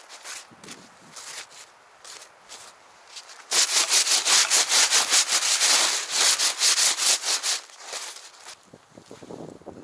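A few light scrapes, then about three and a half seconds in a loud run of quick, even scraping strokes, about four a second, lasting about four seconds before it stops.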